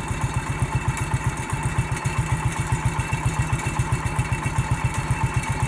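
An engine idling steadily with an even, slow beat of about seven or eight pulses a second.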